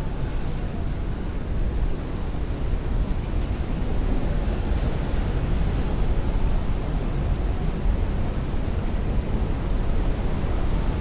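Heavy rain beating on a window with strong wind rushing, a steady, deep rush that swells briefly about halfway through.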